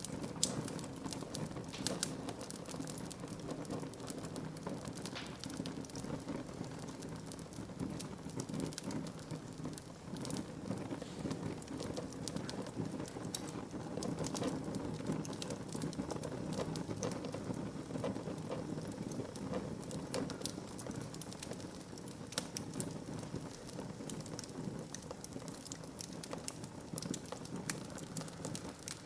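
Wood fire burning in a fireplace: a steady low rush of flames with irregular sharp crackles and pops from the burning wood.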